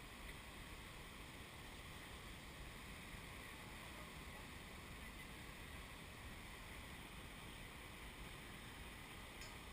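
Faint, steady wash of large ocean surf breaking offshore, mixed with wind on the microphone.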